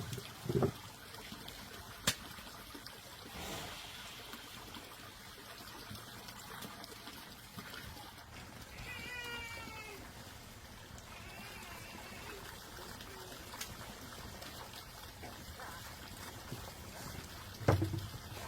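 A short, high animal call, like a cry that bends in pitch, about nine seconds in, with a fainter one shortly after. A low thump comes near the start and another near the end.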